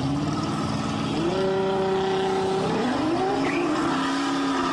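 Car engine under way, its pitch climbing and holding, stepping up again about a second in, then dropping and climbing once more a little under three seconds in, as with acceleration and a gear change, over road and tyre noise.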